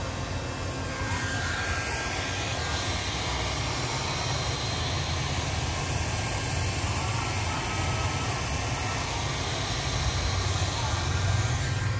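Steady rushing noise over a low hum, growing louder about a second in and then holding even.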